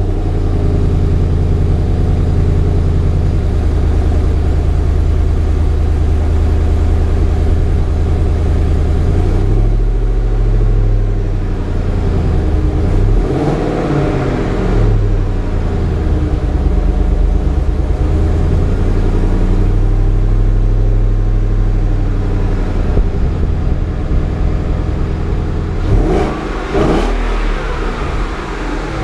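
A 2015 Mustang GT's 5.0 V8 exhaust idling just after starting. The engine is revved briefly about 13 seconds in and again near the end, then settles back to idle.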